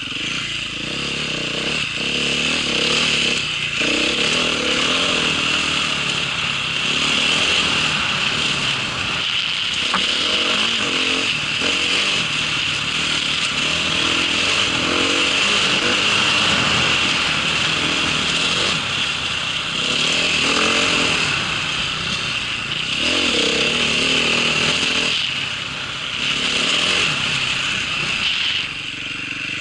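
Small engine running under load, its revs rising and falling, with the level dipping briefly about 26 s and 28 s in.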